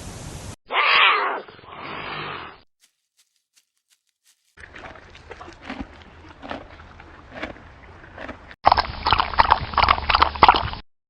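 Animal sound-effect clips, growls and roars of a big cat such as a tiger, edited one after another with silent gaps. Two loud bursts come about a second in, a quieter rough stretch follows the silence, and a loud clip near the end cuts off sharply.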